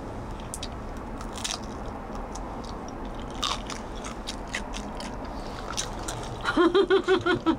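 Close-up biting and chewing of a toasted garaetteok rice cake: scattered soft, sticky mouth clicks rather than a crisp crunch. A short pulsed burst of a voice comes near the end.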